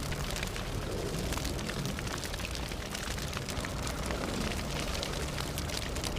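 Fire burning: a steady low roar with many quick, sharp crackles and pops scattered all through.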